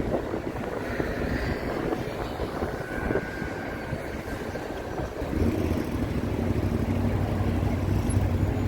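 City street traffic. A vehicle's engine hum grows louder about five seconds in and stays up.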